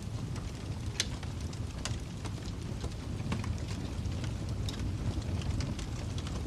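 Wood fire burning in a fireplace: a steady low roar of flames with irregular sharp crackles and pops, one louder pop about a second in.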